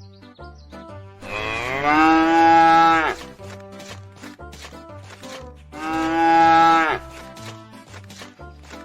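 A cow mooing twice: a long call about a second in and a shorter one near six seconds, each rising at the start and then holding steady, over background music with a steady low beat.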